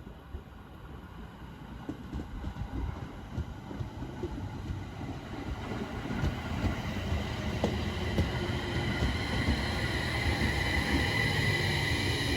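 Local passenger train pulling into a station, growing steadily louder, its wheels rumbling and knocking over the rails. A steady high whine rises toward the end as it slows.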